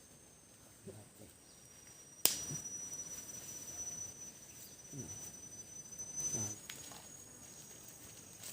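A sharp click, then a faint, thin, steady high-pitched insect call that holds for about four seconds and stops.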